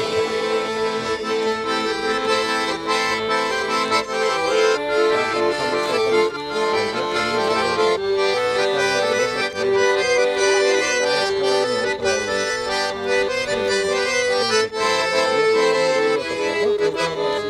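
Accordion playing a traditional folk tune, with sustained chords under a melody that moves in steps.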